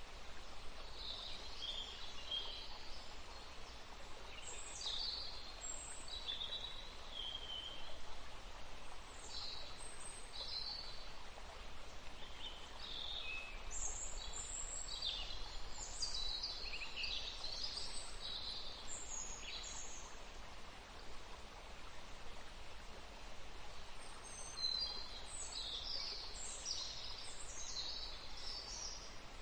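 Songbirds chirping and singing in short, high, sweeping phrases, with a lull midway, over a steady background hiss.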